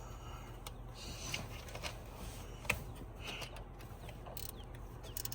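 Small quarter-inch-drive stubby ratchet clicking in short, uneven runs as fasteners on a valve cover are tightened, with a few sharper clicks.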